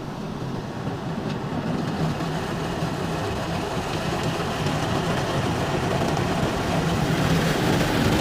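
Rotating brushes of an automatic tunnel car wash scrubbing over the car, heard from inside the cabin: a steady, very noisy churning that slowly grows louder.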